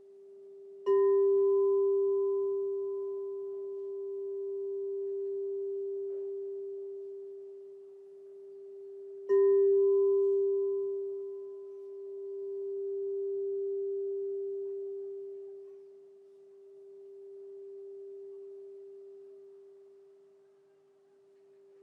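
Crystal singing bowl struck twice, about eight seconds apart, each strike ringing on one low steady note with fainter higher overtones. The ring swells and fades in a slow wobble as it dies away.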